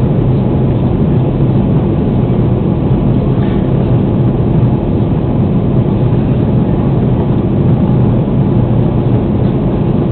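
Steady, loud rumble of an Airbus A330 airliner heard from inside the passenger cabin: engine and airflow noise, heaviest in the low end, with no sudden changes.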